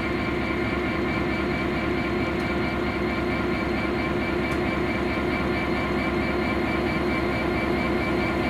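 Great Western Railway Intercity Express Train arriving at the platform, giving a steady electric hum with higher, even whining tones from its traction equipment that hold level without rising or falling.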